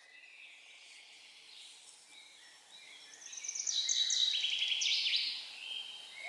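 Songbirds singing: faint high chirps at first, then about three seconds in a much louder song of fast trills that steps down in pitch, lasting about two and a half seconds, before fainter chirps return.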